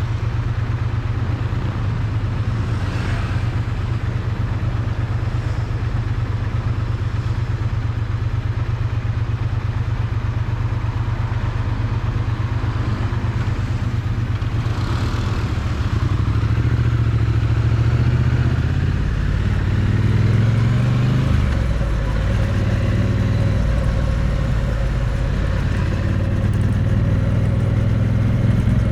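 Triumph Bonneville T100's parallel-twin engine and exhaust running, recorded close to the exhaust. The note is steady and low, growing a little louder and shifting up and down in pitch from about halfway through.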